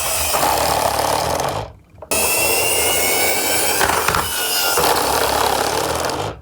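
Toy garbage-truck minicars rolling down a slope, their small wheels making a continuous rumbling rattle. It stops briefly about two seconds in, starts again, and cuts off near the end.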